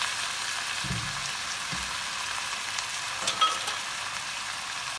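Sliced onion, capsicum and chilli sizzling steadily in hot oil in a wok, with soy sauce and ketchup in the pan. A light knock comes about three and a half seconds in.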